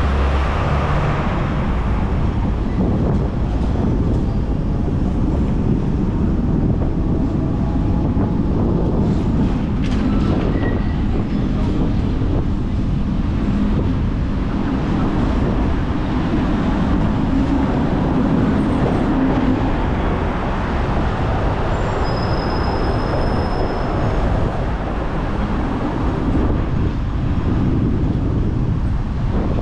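Hong Kong double-decker tram running on its street rails: a steady rumble of wheels and running gear, with a faint high whine once near the end.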